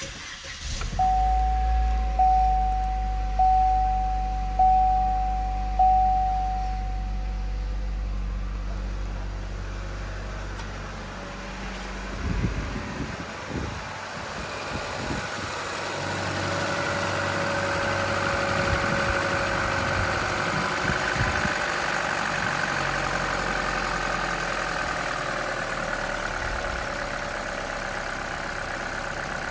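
A 2019 Buick Encore's 1.4-litre turbocharged four-cylinder idling steadily, with five evenly spaced dash warning chimes in the first few seconds. About halfway through come a few knocks and handling noises, after which the idle continues, brighter and more hiss-like.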